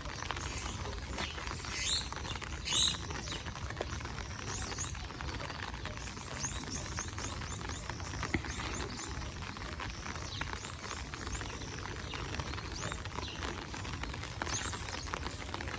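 Birds chirping outdoors: scattered short, high calls, with a quick run of chirps about six seconds in, over a steady low rumble.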